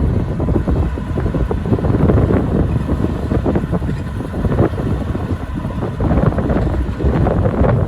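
Heavy diesel earthmoving machinery working: a steady low engine rumble with frequent clanks and knocks, and wind buffeting the microphone.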